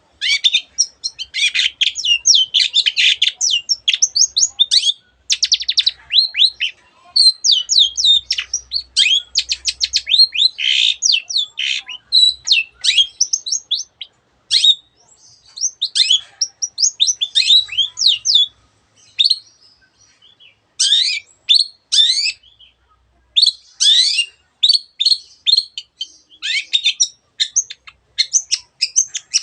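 Long-tailed shrike (cendet) singing a loud, fast, varied song of chattering trills and sweeping high whistles that mixes in the calls of other birds. It comes in rapid phrases with short pauses, breaking up more often in the second half.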